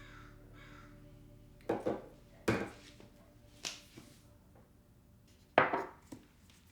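About seven sharp knocks and clatters of kitchen containers being handled and set down, the loudest about two and a half and five and a half seconds in.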